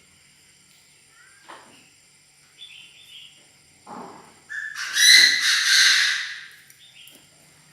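Chinese francolin calling: a few short calls, then one loud, harsh call about five seconds in that lasts over a second.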